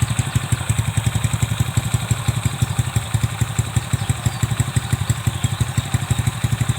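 Honda Grand 100cc single-cylinder four-stroke engine, fitted with an oversized 30mm carburettor, idling steadily through an aftermarket SR exhaust, with a fast, even beat of exhaust pulses.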